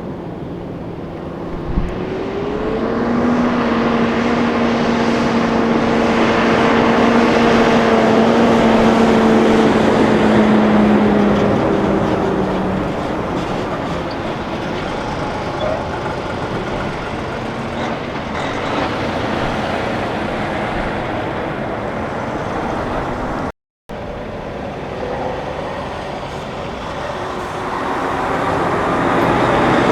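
Diesel semi-trucks passing on the road. One truck's engine note climbs about two seconds in and holds steady as its engine and tyre noise swells, then fades. A brief cut comes before the noise builds again with the next truck near the end.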